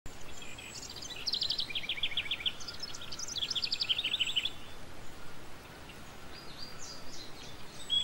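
Small birds singing: two quick trills of sharp, high notes, each about a second long and stepping down in pitch, followed by fainter chirps, over a steady hiss.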